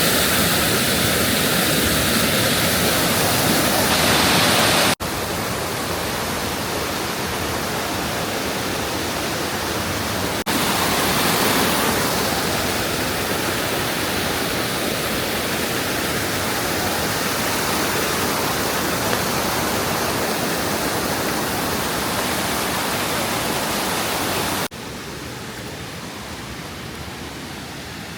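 Rushing water of a waterfall: a steady, loud wash of noise, heard across several clips, with abrupt changes in level about 5, 10 and 25 seconds in.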